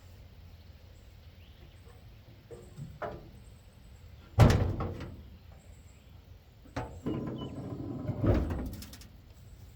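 Door of an old pickup truck being opened: a loud clunk about four and a half seconds in, then a click and a stretch of rattling with a second clunk around eight seconds.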